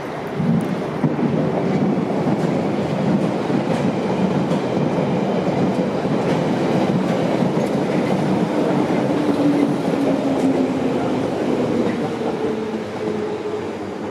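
Train noise from a London Underground Bakerloo Line train arriving at the platform close by, its wheels clattering on the rails, with a diesel-hauled container freight train approaching. A steady whine comes in about nine seconds in and falls slightly in pitch as the tube train slows.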